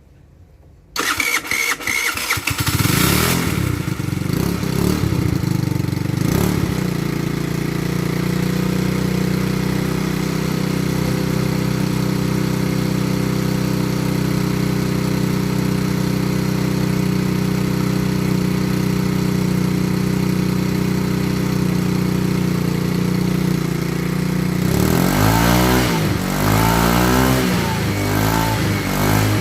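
Lexmoto FMR 50 moped's GY6 139QMB 50cc single-cylinder four-stroke engine starting about a second in after a long time unused, then idling steadily through a newly fitted cheap stainless aftermarket exhaust. Near the end it is revved up and down repeatedly.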